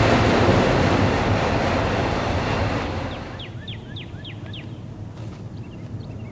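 Freight train rumbling past on the rails and receding, its rumble and wheel noise fading steadily and dropping away about three seconds in. Then five short, high, falling chirps in quick succession.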